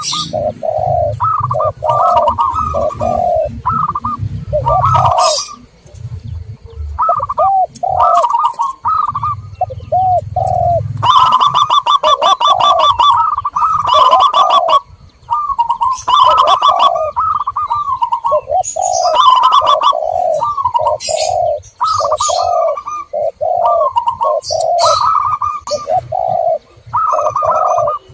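Zebra doves and spotted doves cooing in overlapping, repeated phrases, with smaller birds chirping higher up. This is a dove lure recording meant to call wild doves in. A low hum runs under the first half.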